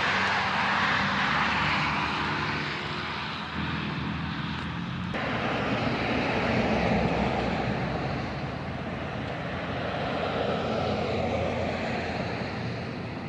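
Traffic noise from heavy trucks going by, a steady rushing of tyres and engines. The sound changes abruptly about five seconds in.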